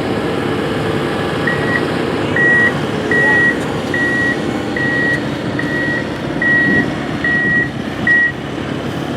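A heavy construction vehicle's reversing alarm sounds about nine times at an even pace, starting about a second and a half in, over the steady noise of its running engine.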